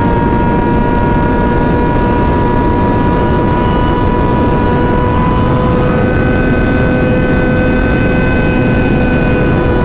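Sport motorcycle engine held at a steady pitch while riding at cruising speed, under a heavy rush of wind noise; the tone shifts slightly about six seconds in.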